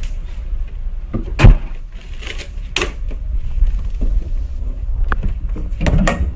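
Low rumble of a phone microphone being carried and handled, with a few sharp knocks and bumps: three loud ones about one and a half, three and six seconds in.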